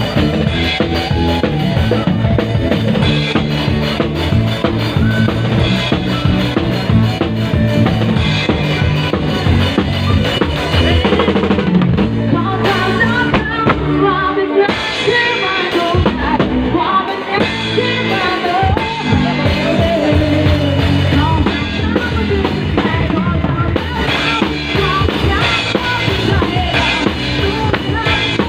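Band music with a drum kit keeping the beat on bass drum and snare, under a wavering melody line that stands out more clearly in the middle stretch.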